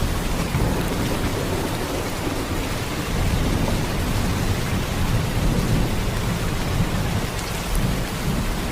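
Heavy rain falling in a steady downpour: a dense, even hiss with a deep low rumble underneath.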